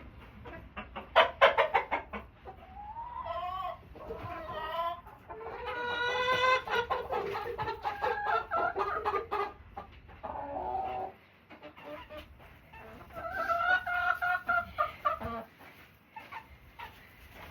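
Chickens clucking and calling: a quick run of sharp clucks, then several long, drawn-out squawking calls.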